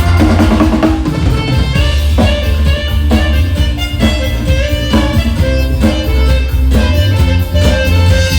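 Loud instrumental music from an electronic organ (keyboard) and drums: sustained keyboard melody over heavy bass, with drum hits on a steady beat about once a second.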